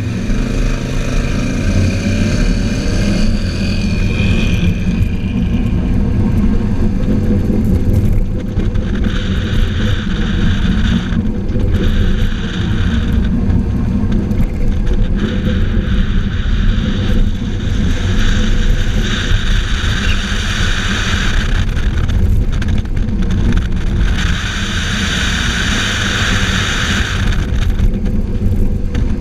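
A competition car's engine accelerating hard from a standing start, its pitch rising over the first few seconds, then running hard through the course. Broad road and tyre noise swells and fades every few seconds throughout.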